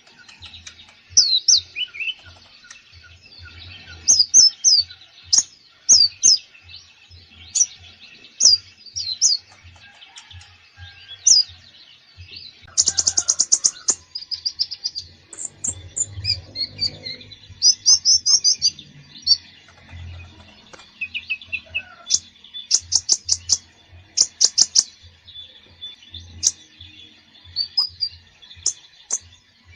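Kolibri ninja (konin) sunbird singing a varied, full song: rapid high chirps and quick sweeping notes, broken by several fast buzzy trills. No pauses of any length.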